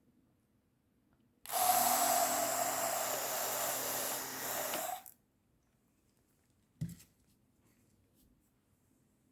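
Sprayer misting water into a small terrarium bottle: one steady hiss lasting about three and a half seconds, then a single click near the end.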